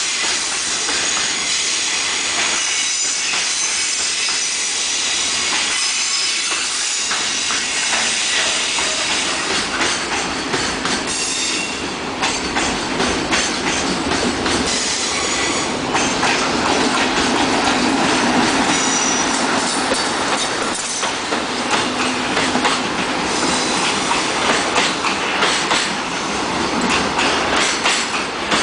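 Container freight train rolling past, its wagon wheels clicking steadily over rail joints with a thin high wheel squeal.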